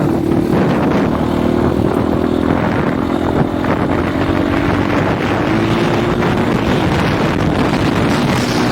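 Husqvarna 501 dirt bike's single-cylinder four-stroke engine running under way at a fairly even pitch that shifts a little now and then, under heavy wind buffeting on a microphone with no wind sock.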